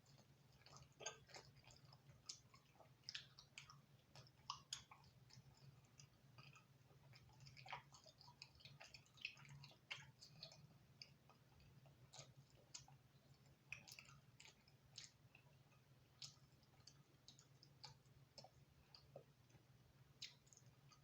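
Close-miked chewing of thin crispy-crust pizza: quiet wet mouth sounds with many small crunches and clicks, irregular, over a faint steady low hum.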